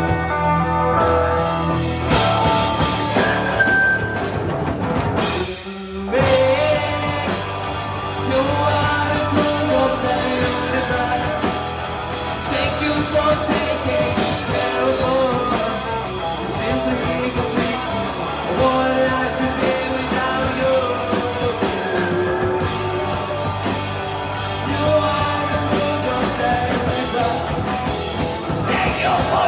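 Live rock band playing with a lead singer. The band drops out for a moment about six seconds in, then comes straight back in at full volume.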